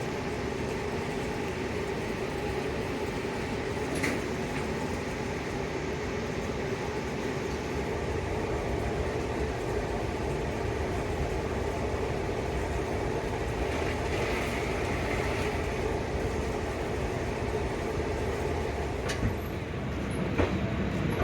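Passenger train sound: a steady rumble and hum, with a few sharp clicks about four seconds in and again near the end.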